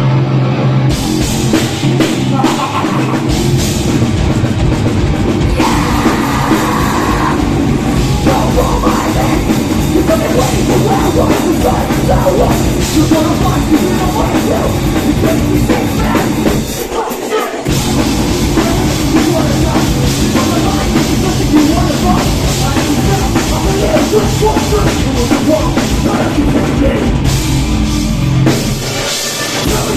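Live metalcore band playing loud and dense, with heavy distorted guitars, bass and a pounding drum kit. The band stops dead for a moment about 17 seconds in and again near the end before crashing back in.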